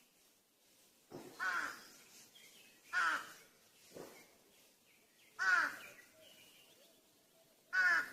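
A crow cawing: five harsh caws spaced a second or two apart, the fourth one shorter and quieter than the rest.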